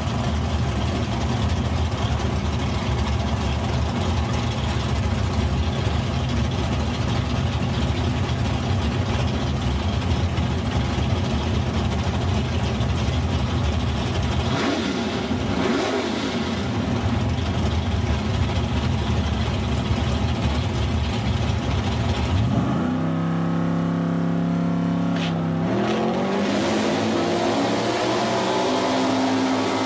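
Drag car's engine held at high revs in a loud, steady drone as it sits in the smoke at the start line, dipping briefly midway. About three-quarters in it launches, and the engine note climbs, drops at a gear change, and climbs again as the car pulls away down the strip.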